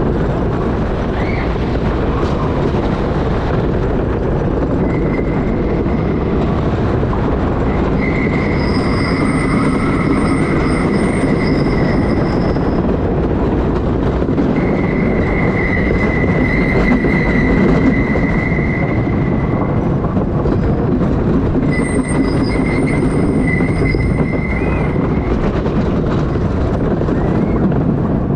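Train of a CCI wooden roller coaster running fast over the track, a loud steady rumble and rattle. High-pitched wheel squeal comes in on the curves, three times for several seconds each.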